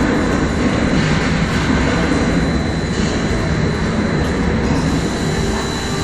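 Hurricane-force wind blowing hard and steadily, with a heavy, uneven low rumble.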